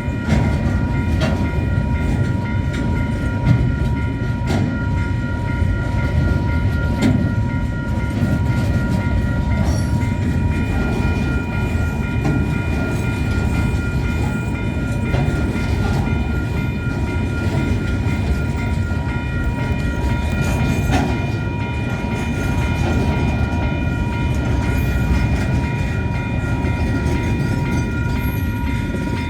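A train passing over a level crossing: a steady low rumble from the wheels and wagons, with the crossing's warning bells ringing in fast, even pulses over it.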